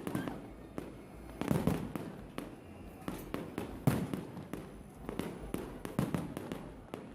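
Fireworks display: a string of bangs at irregular intervals, with heavier booms about one and a half, four and six seconds in and lighter crackles between.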